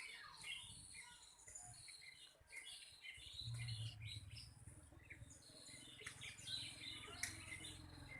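Small songbirds chirping in many short, repeated high calls, faint, with a low rumble joining about three and a half seconds in.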